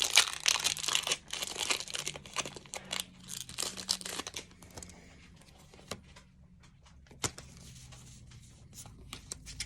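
Pokémon booster pack's foil wrapper being torn open and crinkled, dense crackling for the first four seconds or so, then only a few scattered light clicks.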